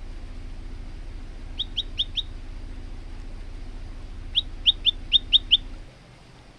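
Male prenjak lumut singing in two quick bouts of short, sharp, high notes: a run of four, then after a pause a run of six. A steady low hum sits underneath and cuts off near the end.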